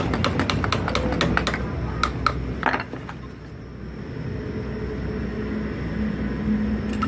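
Rapid light tapping, about four or five taps a second, stopping after about a second and a half; a few scattered taps follow, then a steady low hum.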